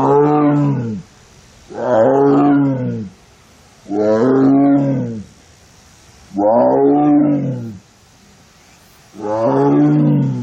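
Amur (Siberian) tiger calling over and over in heat: five long, moaning roars, each about a second long and rising then falling in pitch, spaced about two seconds apart.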